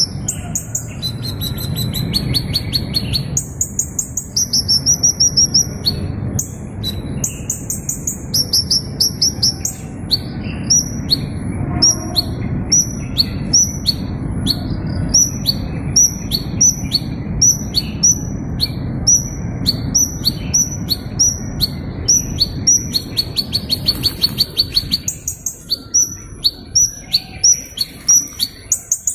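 A small bird calling in high, rapid buzzy trills, then in short sharp chirps repeated about once a second, breaking into a fast trill again near the end. A steady low rumble runs underneath.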